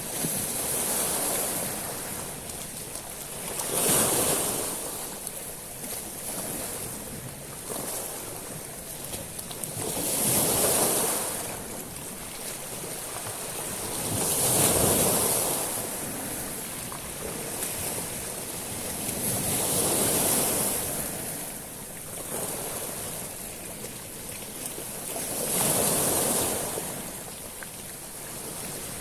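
Sea waves breaking and washing over a shingle beach of small pebbles, each surge bringing a hiss and rattle of stones. About five waves rise and fall, one every five to six seconds.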